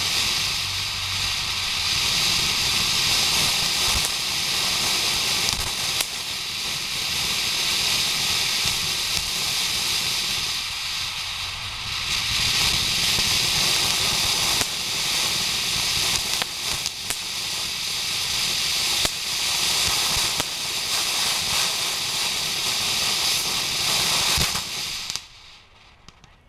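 Homemade firework fountain of black powder and crackle balls burning with a steady hiss, crackling throughout, then burning out suddenly near the end.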